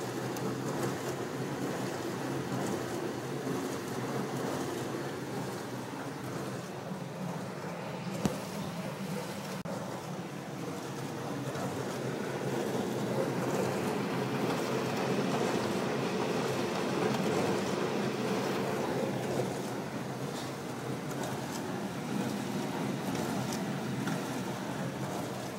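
Metrowealth WP5B countertop dishwasher running its wash cycle: a steady motor hum under water spraying and sloshing inside the tub, growing louder for several seconds in the middle, with a single click about eight seconds in.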